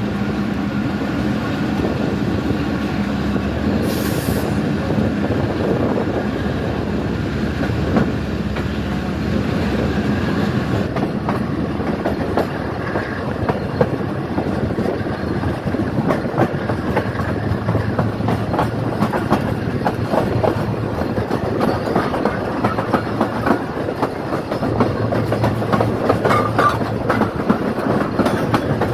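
Wheels of a Pakistan Railways Tezgam Express passenger coach running at speed, heard from the coach itself: a steady rumble with a clickety-clack over rail joints. The clatter grows busier in the second half as the train crosses the yard's points.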